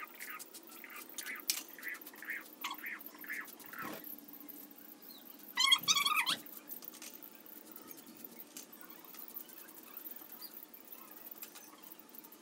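Indian ringneck parrot giving short chirps and then one louder, harsher call about six seconds in, among light scattered clicks.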